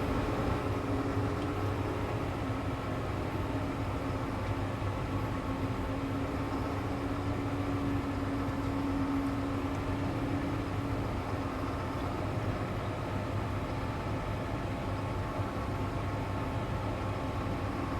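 New Holland T7.315 tractor's six-cylinder diesel engine running steadily while pulling a grain trailer across a field, with a humming tone that grows stronger for a few seconds in the middle.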